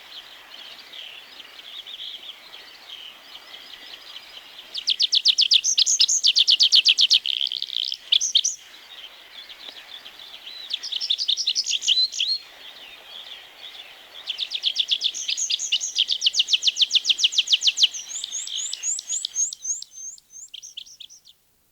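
Tree pipit singing: three songs of fast repeated trilled notes, the last and longest ending in a run of drawn-out slurred notes. Fainter bird chatter goes on behind them.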